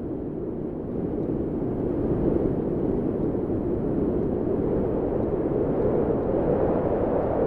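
Steady low rushing of wind, a deep even roar without distinct gusts or tones.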